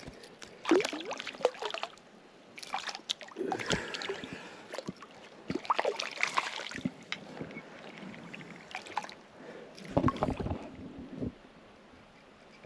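Creek water splashing and sloshing in irregular bursts, stirred up by someone wading.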